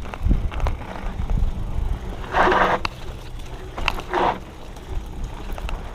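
Hardtail mountain bike ridden over a dirt trail: tyres rumbling on the ground with frequent clicks and rattles from the bike, and two short, louder scraping hisses about two and a half and four seconds in.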